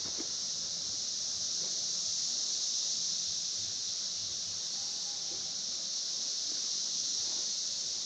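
Chorus of cicadas singing, a steady, loud, high-pitched hiss that does not let up.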